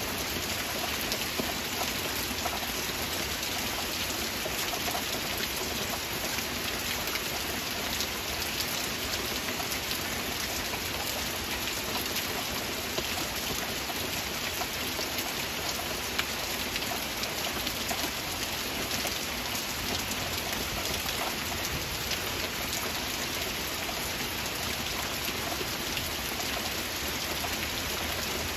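Steady heavy rain: a constant rushing hiss with the sharp ticks of many individual drops striking close by.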